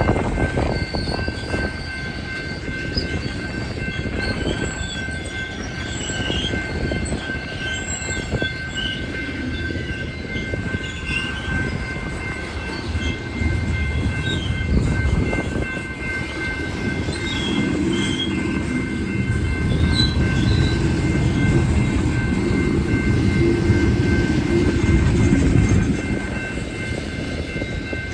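Coal train's cars rolling past: a steady low rumble of wheels on rail, with scattered high-pitched wheel squeals over a thin steady whine. The rumble grows louder past the middle and eases off near the end.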